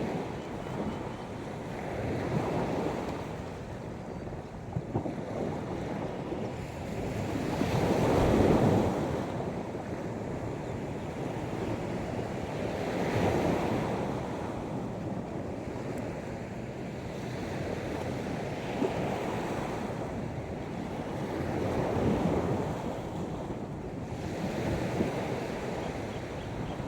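Sea waves breaking and washing up the beach, each swell rising and falling every four to six seconds, the biggest about a third of the way through. Wind buffets the microphone throughout.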